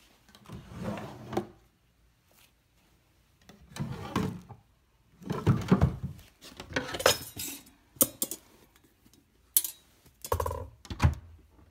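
Hard objects clattering and knocking in a small room, in about six separate bursts with short quiet gaps between them.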